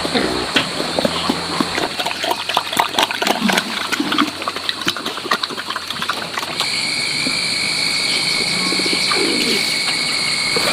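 Birds calling, with low cooing calls a few times, over many clicks and knocks. About two-thirds of the way through, a steady high-pitched buzz sets in.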